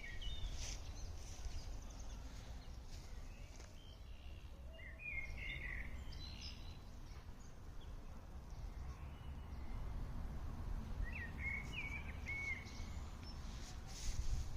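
Songbirds singing short chirping phrases, three bursts spaced several seconds apart, over a steady low rumble of outdoor background noise.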